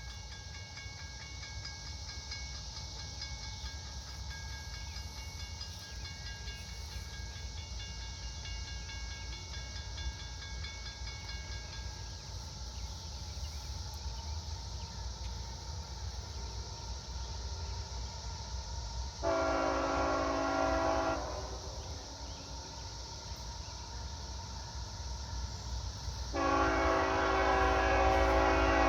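CSX freight locomotive horn sounding two blasts about seven seconds apart, the second longer, over the low rumble of the approaching manifest train. A high steady ringing tone sounds for the first dozen seconds and then stops.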